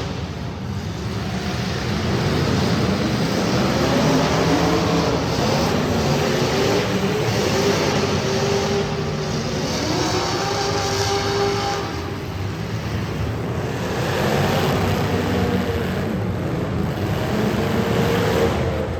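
Several street stock race car engines running on track, their pitch rising and falling as they rev up and back off, the sound swelling and fading as the cars pass.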